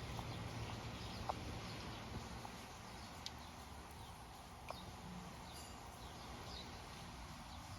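Steady hiss of light rain, with a few faint bird chirps and a handful of soft taps.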